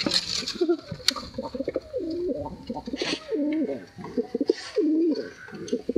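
Several pigeons cooing, their low calls overlapping and repeating throughout, with a single sharp click about a second in.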